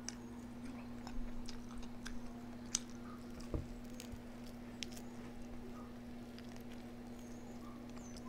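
A person chewing food close to the microphone, with scattered soft clicks of eating over a steady low hum.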